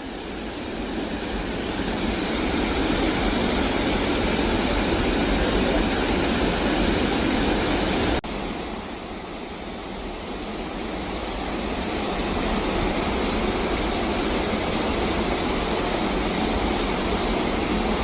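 Nabegataki waterfall, a wide curtain of water falling about 12 m, rushing steadily. The sound breaks off for an instant about eight seconds in, comes back quieter and grows louder again over the next few seconds.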